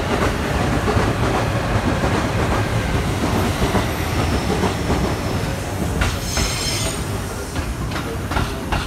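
JR local electric commuter trains rolling along the station tracks: a steady rumble of wheels on rail, with a brief high wheel squeal about six seconds in and sharp clacks over rail joints near the end.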